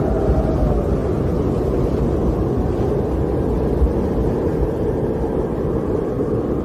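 Snowstorm wind blowing steadily, a low rushing rumble, with a faint howl that sinks in pitch and fades in the first second.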